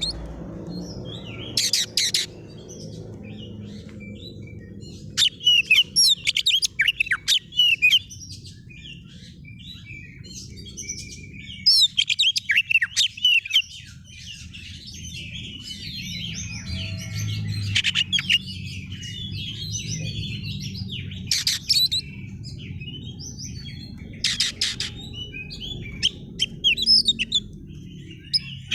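Oriental magpie-robin (kacer) singing in repeated loud bursts of varied whistles and chirps, with a steady low rumble underneath.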